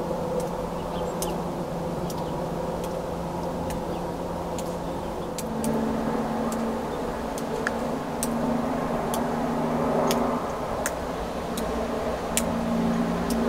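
Steady low hum of a motor running, its pitch shifting a little about halfway through, with scattered sharp clicks throughout.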